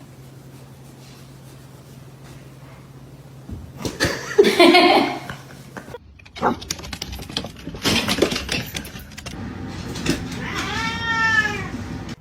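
Animal calls: one loud pitched call about four seconds in, then after a sudden cut some clicks and a quick string of short rising-and-falling calls near the end.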